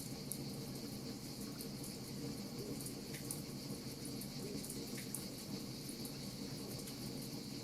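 Wood fire crackling: frequent small, irregular pops over a steady hiss.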